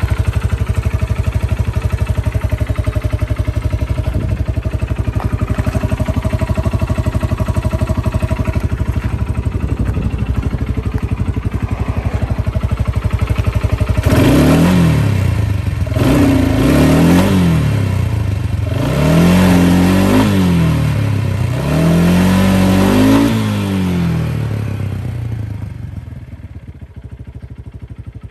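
300cc Kawasaki ATV's single-cylinder four-stroke engine idling steadily, then blipped up and back down four times in a row. It falls quieter near the end.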